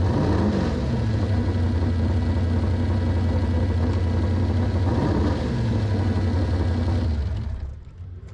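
Dragster engine running at a steady idle, with two short revs, one near the start and one about five seconds in, then fading away near the end.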